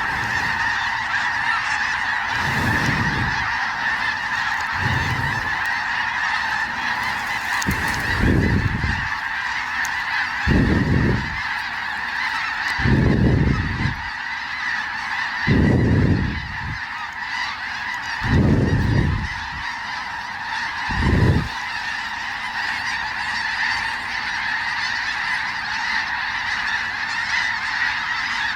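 Snow geese calling nonstop, a dense clamour of high honks. Short low rumbles come about every two and a half seconds through most of it.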